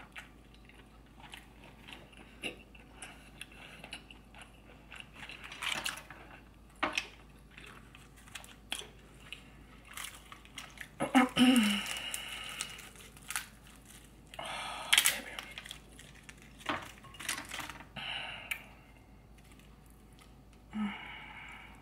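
Close-miked chewing and crunching of fried seafood, in irregular bites and crackles with short pauses between them.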